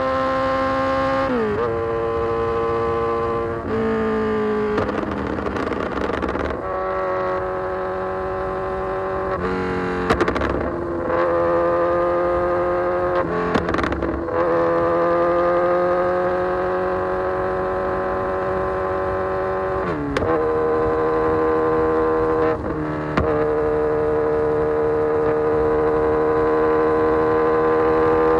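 Kawasaki Z900 inline-four with an Austin Racing full exhaust system, riding under throttle. The engine note climbs and holds, then drops suddenly at each of several gear changes, and sometimes sags slowly as the bike rolls off. It sounds muffled, as heard from a phone carried in the rider's bag.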